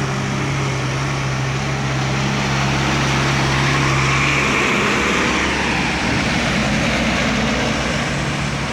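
Heavy vehicle running hard: a steady engine drone that fades about halfway through, giving way to a broad rushing running noise.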